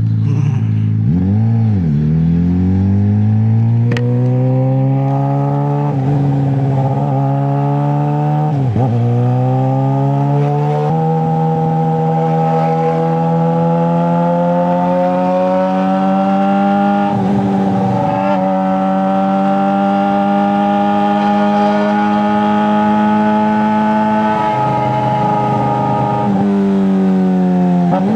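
Straight-piped 2009 Suzuki GSX-R600 inline-four engine under way, climbing in pitch through three quick gear changes in the first ten seconds. It then holds a steady, slowly rising cruise, drops briefly near the end and picks back up.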